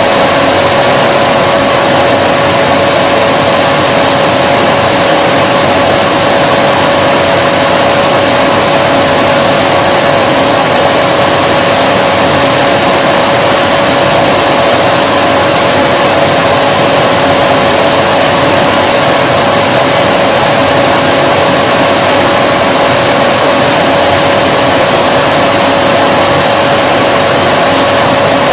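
Vacuum cleaner motor running steadily with an unbroken rush of air and a constant hum.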